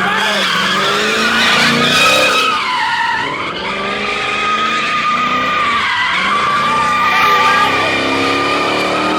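A car drifting in circles, its tires squealing continuously while the engine revs rise and fall. The squeal wavers and dips twice, about three and six seconds in, then comes back.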